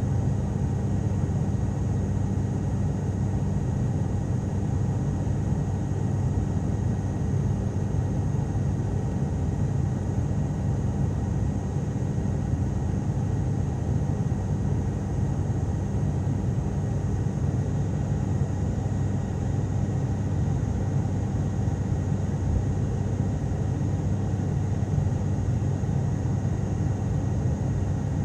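Cabin noise of an ATR turboprop airliner: a steady low drone from the engines and propellers under a hiss of airflow, unchanging throughout.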